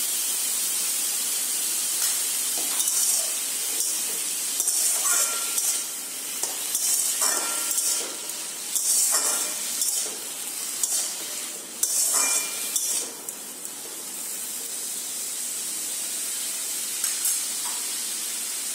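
Pumpkin shoots (kumro doga) sizzling as they fry in a stainless steel wok, with a steady hiss throughout. In the middle stretch a spatula stirs them, scraping against the steel pan in a string of strokes.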